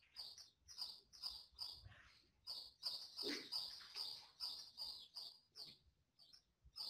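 A bird chirping over and over, faint, in a run of short chirps about three a second.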